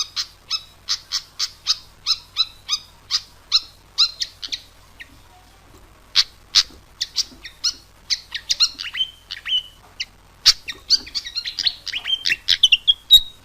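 Pied fantail (burung kipasan) singing: a quick run of short, sharp chirps, about three or four a second, breaks off after four or five seconds. After a short pause the song resumes with more varied notes, some gliding down and up in pitch.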